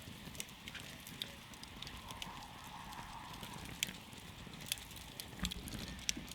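Wood campfire crackling: irregular sharp pops and snaps from the burning wood over the steady low rush of the flames.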